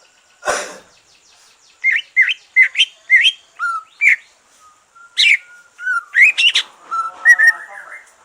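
Green leafbird (cucak ijo) singing: a string of loud, quick rising whistled notes, running into a faster, denser jumble of notes near the end, from a bird just through its moult. A short harsh burst of noise comes about half a second in.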